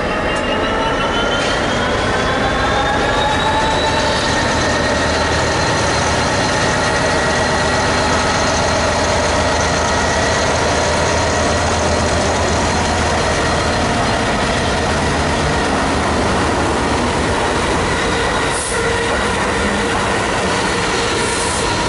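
Diesel freight train running past on the line, its pitched whine rising over the first few seconds and then holding steady over the rumble of the wheels on the rails.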